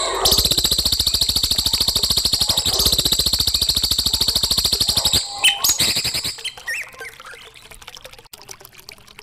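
A songbird's fast, even, high rattling trill, held for about five seconds, then a few short separate chirps and whistles that are quieter.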